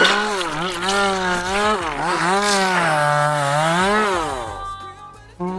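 Chainsaw engine revving, its pitch rising and falling several times, then dying away near the end.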